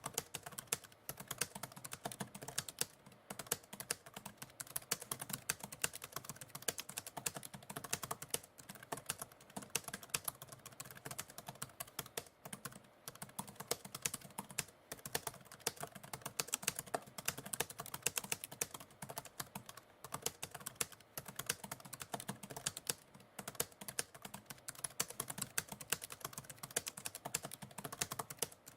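Continuous typing on a computer keyboard: a fast, irregular run of key clicks with brief pauses.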